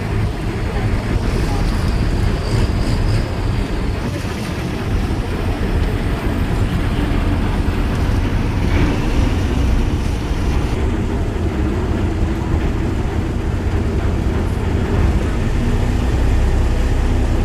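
Engine running steadily, a low rumble with wind buffeting the microphone; a steady low hum comes in near the end.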